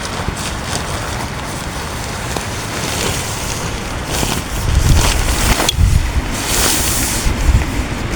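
Heavy rain pouring on a tent in strong wind, a steady loud hiss; gusts swell into a low rumble about halfway through, followed by a brighter rush of rain.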